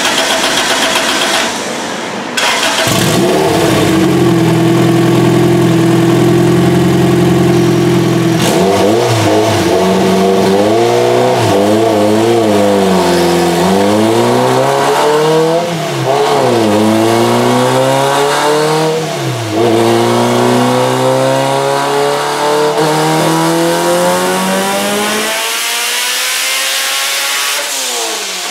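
Turbocharged Honda B18 four-cylinder engine running on a chassis dyno. It holds a steady speed, revs up and down a few times, then climbs steadily in pitch through a long pull before letting off near the end. This is a pull on which falling fuel pressure at high rpm was leaning the engine out.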